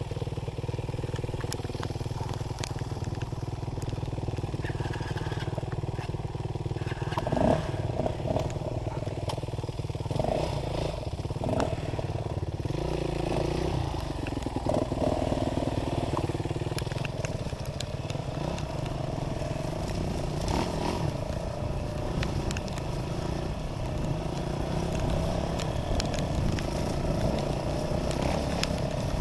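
Dirt bike engine running while riding, its pitch rising and falling with the throttle, with scattered short clicks over it.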